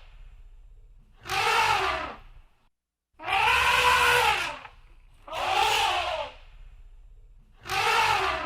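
Elephant trumpeting: four loud calls, about two seconds apart, each lasting a second or so and rising then falling in pitch, over a low rumbling noise.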